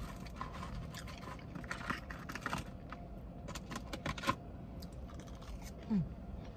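Close-up eating sounds: chewing pancakes and fries, with small clicks and scrapes. A brief low falling hum comes near the end.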